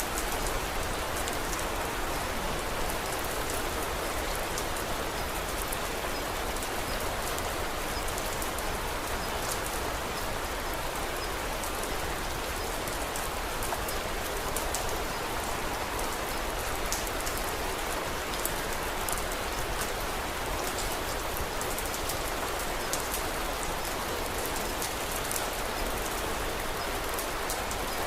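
Steady, even rain falling, with many fine sharp ticks of drops scattered through it.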